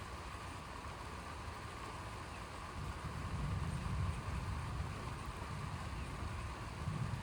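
Low rumble of distant thunder, swelling about three seconds in and rolling on, over a faint steady hum.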